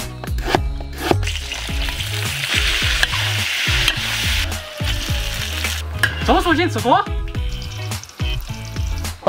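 Sliced palm core and bacon frying in a wok: hot oil sizzling, with a spatula knocking and scraping as the food is stirred. The sizzle is loudest from about two to four and a half seconds in.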